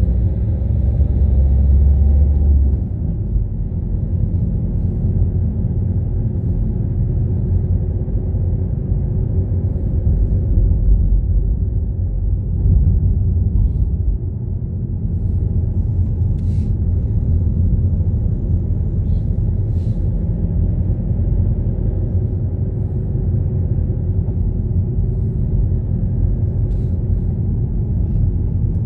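Car driving: a steady low rumble of engine and road noise, a little louder for the first couple of seconds, with a few faint clicks in the second half.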